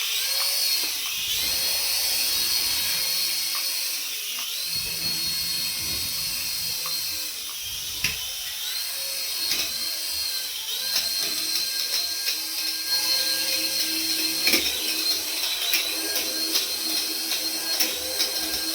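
A remote-control toy's small electric motor whines at a high pitch, spinning up and winding down several times.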